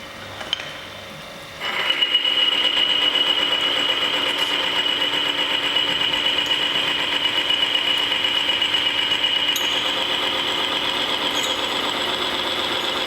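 Motor-driven friction-test machine starting abruptly about a second and a half in. It runs steadily with a high whine and a rattling grind as a bearing race rubs on a turning roller lubricated with additive-treated engine oil, before extra weights are added.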